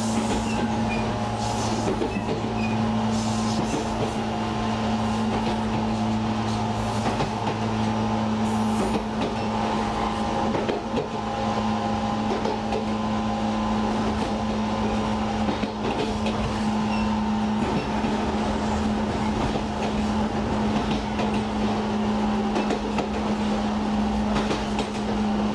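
JNR 415 series electric multiple unit running, heard from inside the car: a steady hum with several held tones over continuous rolling noise.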